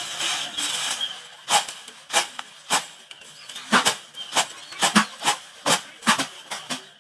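A series of sharp knocks or strikes, irregular, about one to two a second, with a short hiss in the first second.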